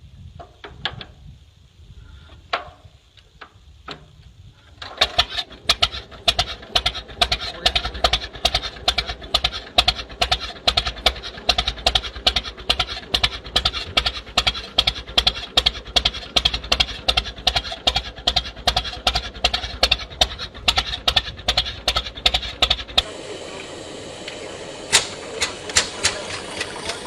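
Vintage tractor engine running with a slow, regular beat of loud exhaust pulses, about three or four a second, starting about five seconds in after a few scattered knocks. Near the end the sound changes abruptly to a quieter, steadier engine run.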